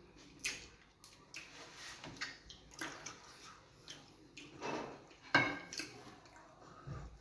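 Close-up wet eating sounds of fufu and groundnut soup: irregular slurps and squelches, the loudest a little past five seconds in.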